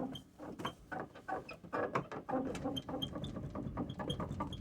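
Rear cargo door of a T1N Sprinter van squeaking and creaking in a rapid run of short chirps, several a second, over a low rumble as the van moves. The squeak comes from the middle of the door, where the door is cracked, which the owner takes as a possible root cause.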